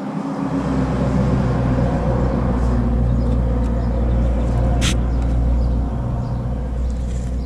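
An engine or motor starts about half a second in and runs with a steady low hum. There is one sharp click near the middle.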